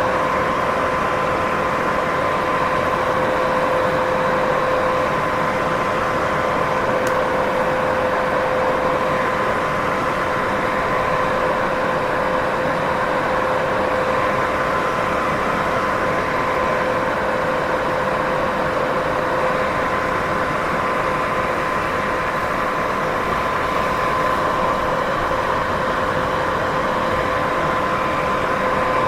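Steady white noise: a constant, even hiss with a faint hum of two pitches an octave apart running through it.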